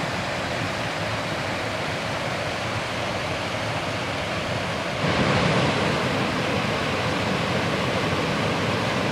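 Small waterfall about eight feet tall, with a lot of water coming over the top, rushing and splashing steadily; it gets a little louder about five seconds in.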